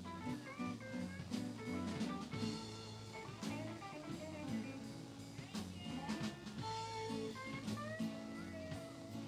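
A live band playing blues: electric guitar lead notes with bends over bass and drum kit.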